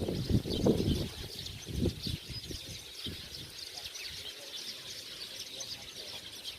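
A dense, steady chorus of many small birds chirping all at once, with no single call standing out. Low rumbling thumps, louder than the birds, run through the first two seconds and then die away.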